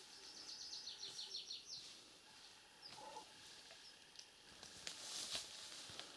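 A songbird singing faintly: a quick run of about ten high notes, each sliding downward, in the first two seconds, and a single short note about three seconds in. A short burst of noise about five seconds in.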